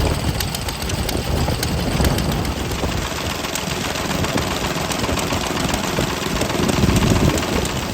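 Vintage stationary engines running steadily, with a clatter of irregular ticks over the constant engine noise.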